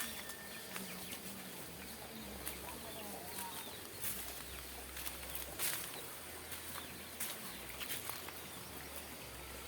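Quiet outdoor ambience with a faint low hum and scattered soft taps and clicks, a few seconds apart.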